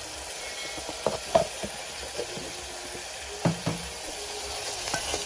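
Small silver fish and onion sizzling in hot oil in a metal saucepan, with a metal spoon knocking against the pot several times as it is stirred.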